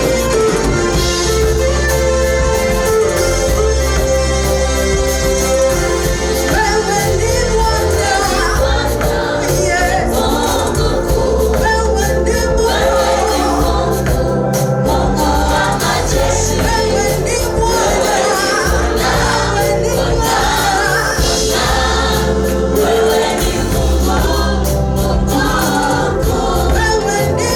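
A gospel choir singing with instrumental backing and a strong bass line.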